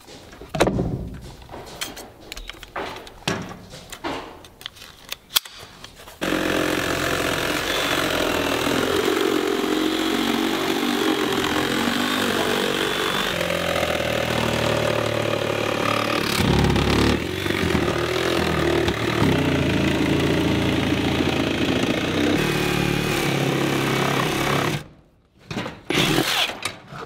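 A power saw with a carbide-tipped blade running under load for about nineteen seconds, starting about six seconds in and cutting off suddenly near the end. Scattered clicks and knocks come before it starts and after it stops.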